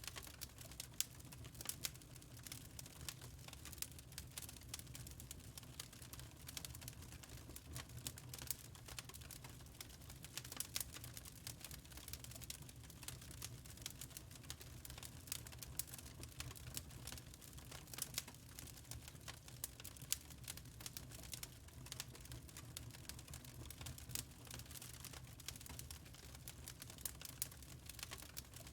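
Wood fire burning in a fireplace: a steady stream of small, irregular crackles and pops over a low soft rumble.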